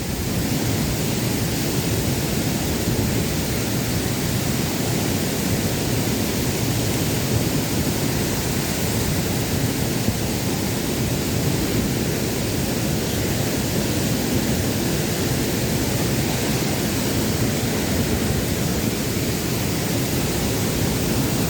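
Steady rushing of water at a waterfall, an even noise with no letup.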